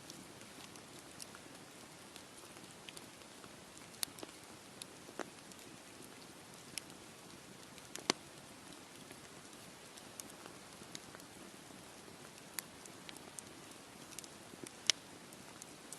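Campfire crackling: a soft steady hiss broken by scattered sharp pops, with the loudest snaps about halfway through and near the end.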